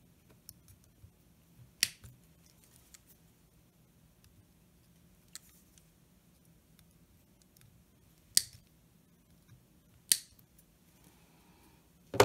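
Small wire cutters snipping through thin wires: one sharp snip about two seconds in, then two more close together near the end, with faint light clicks between.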